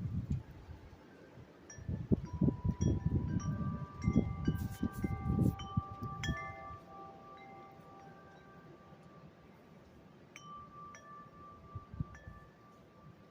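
Wind chimes ringing in a wind gust: several tones are struck about two seconds in and ring on, while wind rumbles on the microphone for about four seconds. A few more chime strikes sound near the end as the gust dies down.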